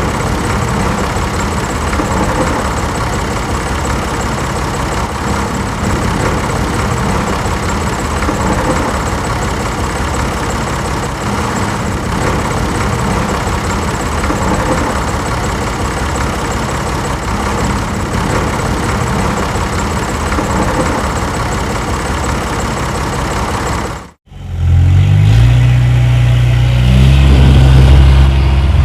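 Steady mechanical running noise that cuts off abruptly about 24 seconds in. A deeper engine sound follows, running and revving with shifting pitch.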